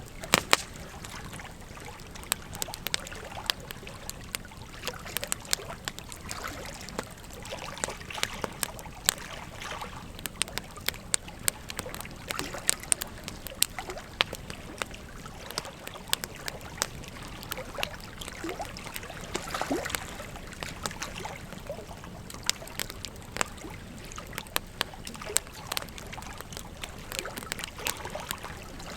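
A wood fire crackling, with frequent sharp irregular pops, over the steady rush of flowing river water.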